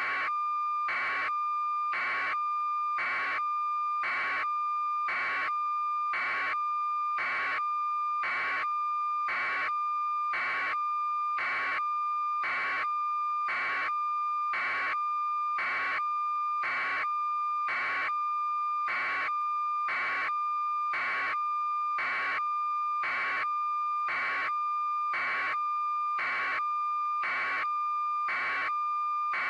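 Steady electronic tone with a beep pulsing about once a second, even and unchanging.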